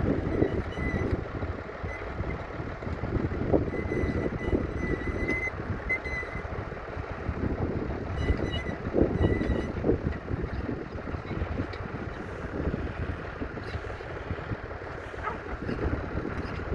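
McCormick B275's 2.3-litre four-cylinder diesel engine running steadily under load while pulling a mounted plough, with a faint high squeal coming and going in the first few seconds.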